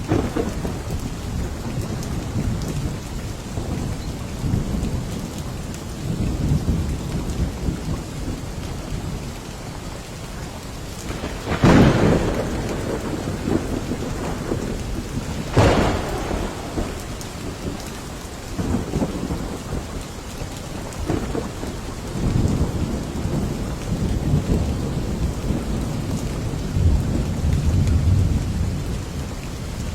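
Steady rain falling, with low rumbles of thunder rolling through. Near the middle come two sharp thunder cracks about four seconds apart, the loudest sounds here.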